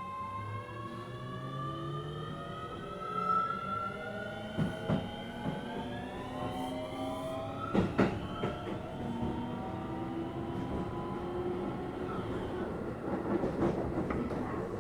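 Keio 7000 series electric train accelerating: its traction motor and control equipment give a layered whine that climbs steadily in pitch for about eight seconds and then levels off. The wheels knock over rail joints several times, and the rolling noise grows towards the end.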